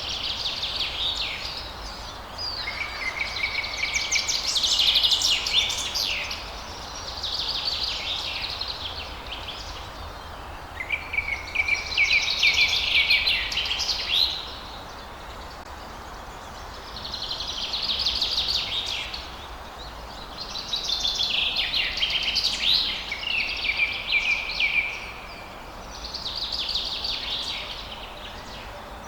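Songbird singing a series of trilled, chirping phrases, each two to four seconds long with short pauses between, over a steady low background noise.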